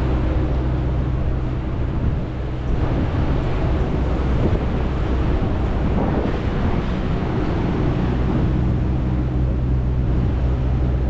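Steady low mechanical hum of a running motor, with an even rushing noise over it.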